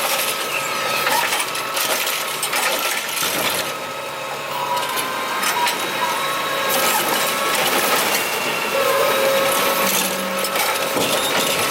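Curbtender garbage truck working a cart pickup: continuous metallic rattling and clattering of the truck and the cart contents being dumped, with a faint steady whine under it.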